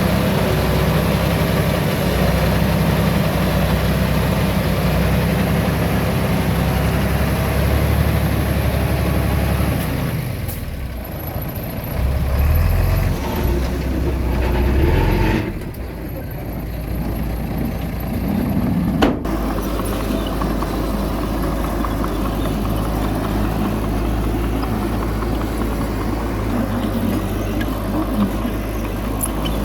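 Heavy diesel earthmoving machinery engines running steadily, the engine note dipping and shifting between about 10 and 16 seconds in, with a sharp click a little after that before steady running resumes.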